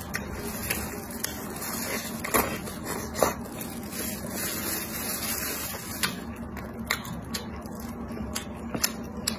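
Close-miked chewing of a mouthful of a filled wrap with bean sprouts and greens, with irregular crisp clicks and wet smacks over a steady hiss.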